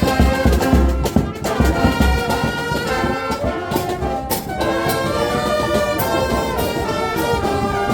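Brass band music playing a tune in held notes, with a strong low beat under it for the first second or so.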